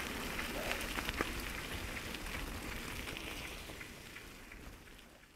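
Crackling noise with scattered clicks, fading steadily away over the last two seconds.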